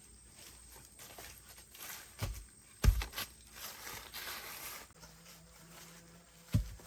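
Rustling and scraping of objects being handled, with three dull thumps: the loudest about three seconds in, another just before it, and one near the end.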